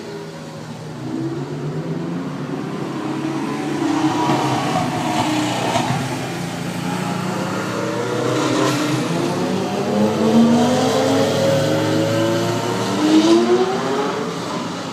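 Engines of several vintage cars running and revving one after another, their pitch rising and falling as they pass, loudest a little past the middle and again near the end.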